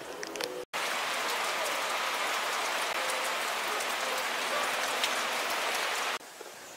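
Steady rain falling, an even dense hiss that starts abruptly just under a second in and cuts off suddenly near the end.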